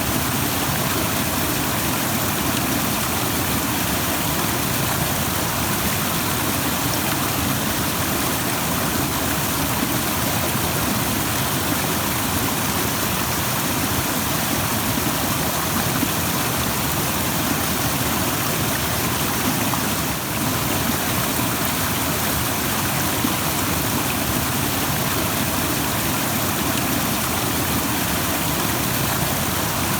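Rushing stream: water flowing fast over rocks, a steady, even rush.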